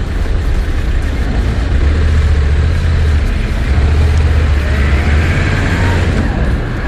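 Motorcycle being ridden through town traffic: engine running under a steady low rumble, with a faint rising pitch a little past the middle as it speeds up.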